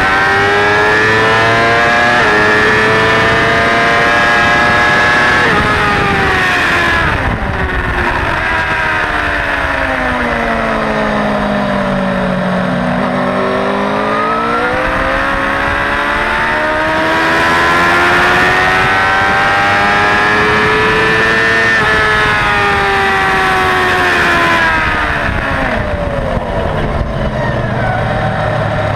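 Suzuki GSX-R600 K4 inline-four engine heard on board at speed, with wind rush. It holds high revs at first, then falls in pitch over several seconds as the bike slows from high speed. It climbs again as it accelerates, holds high, then drops once more near the end.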